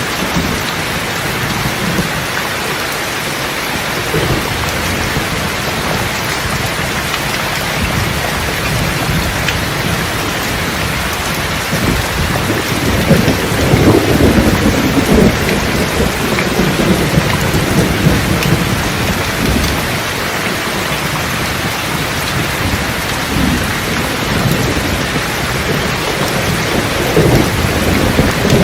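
Steady rain with thunder rumbling: a constant hiss of rainfall, with a longer roll of thunder swelling about halfway through and a smaller rumble near the end.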